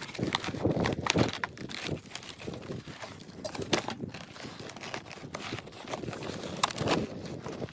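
Irregular crunches and sharp knocks at an uneven pace, with a few louder clicks about four seconds in and again near the seven-second mark.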